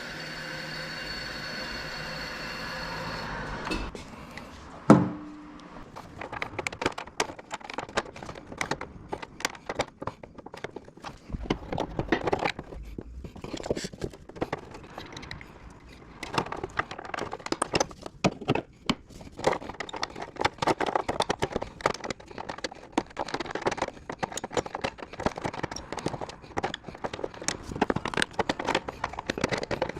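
A steady machine hum cuts off a little under four seconds in. About a second later comes one sharp metallic clank with a brief ring, then a long run of irregular clicks, taps and scrapes of tools and metal parts being handled.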